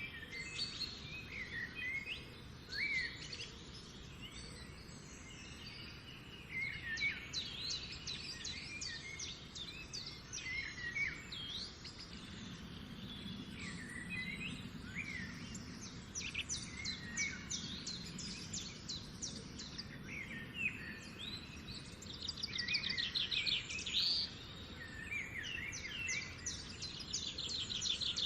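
Several birds singing and calling together: a dense chorus of short chirps, sweeping whistled notes and rapid trills, over a steady outdoor background noise.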